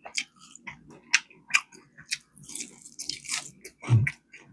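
Fried chicken being bitten and chewed close to the microphone: crisp skin crunching in a string of sharp bites, with chewing between them and a short low thud near the end.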